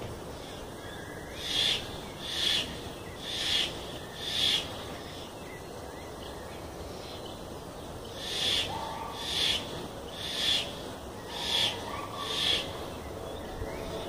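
A bird calling in two series of short, high calls, about one a second: four calls, a pause, then five more.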